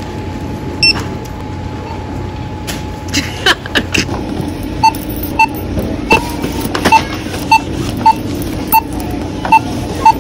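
Self-checkout barcode scanner beeping as items are scanned, short beeps repeating about every two-thirds of a second through the second half, over a steady store hum.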